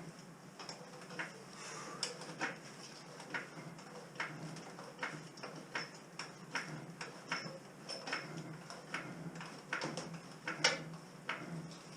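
Trolley jack being pumped to lift the truck's chassis: a run of short clicks and knocks, about one or two a second, unevenly spaced.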